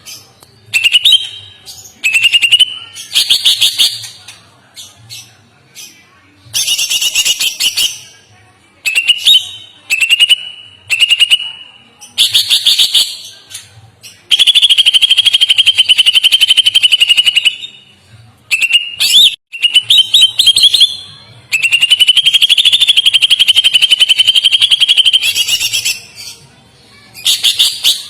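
Songbird singing in a series of fast, rattling trills with short pauses between them; two long trills, each held about four seconds, are the loudest part.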